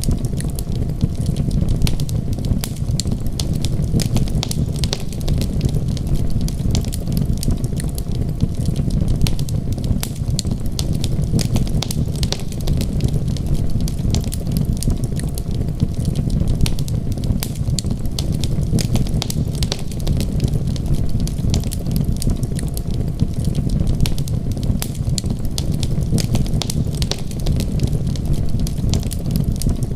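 Wood fire crackling steadily, with many small sharp pops scattered over a constant low rumble.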